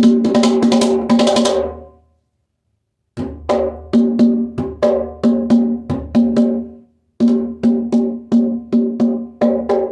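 Bougarabou drum with a thick Peruvian steer skin head on an Iroko wood shell, struck in a quick rhythmic pattern; each stroke rings with a clear pitched tone over a deep bass thump. The playing stops about two seconds in for just over a second, then picks up again in an even rhythm.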